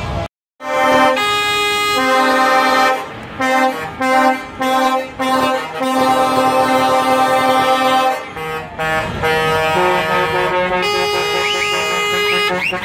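A truck's musical air horns playing a tune, loud sustained notes that step up and down in pitch, with short breaks between phrases.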